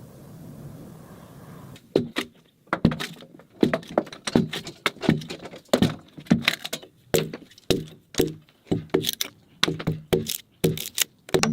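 Irregular series of sharp knocks from hand tools striking timber, a few a second, beginning about two seconds in after a low steady background.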